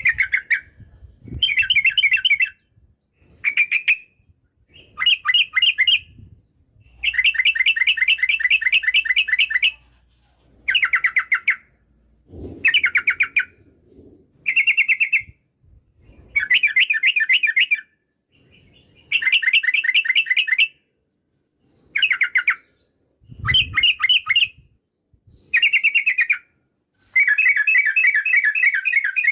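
Yellow-vented bulbul (trucukan) singing: short bubbling phrases of rapid repeated notes, one every second or two with brief pauses between.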